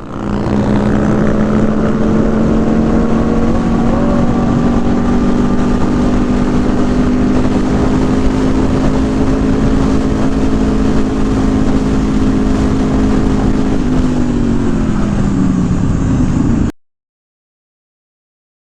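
Yamaha R1's inline-four engine running at a steady speed under road and wind noise, its pitch then falling as the bike slows, before the sound cuts off suddenly.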